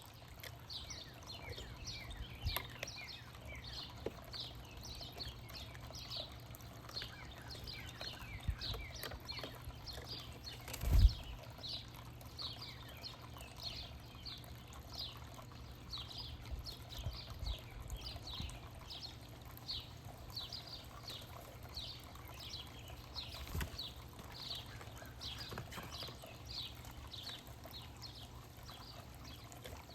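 Songbirds chirping in a steady run of short, high, down-slurred notes, two to three a second. About eleven seconds in there is a single loud thump.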